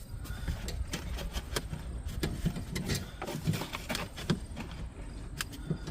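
Irregular light clicks and knocks of hands handling wiring harnesses and plastic dash parts inside a car's cabin.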